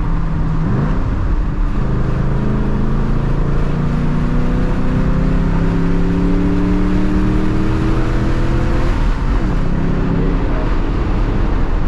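A 2007 Mustang GT's 4.6-litre V8, fitted with Thumpr cams, accelerating under load. Its note climbs steadily in pitch from about two seconds in until about nine seconds, then drops away and starts climbing again, over steady road and tyre noise.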